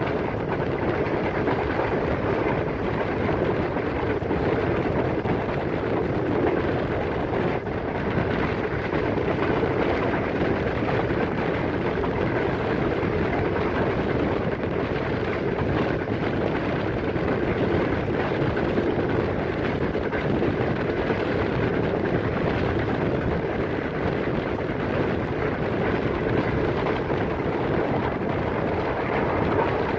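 Passenger train in motion: a steady, unbroken running noise from wheels and carriages.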